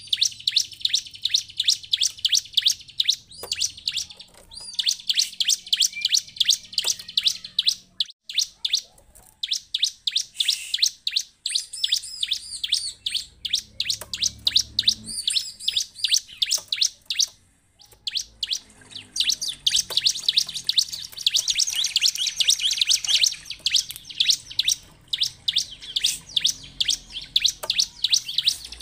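Bar-winged prinia (ciblek) chirping in a rapid, high-pitched run of about six notes a second, with two short breaks.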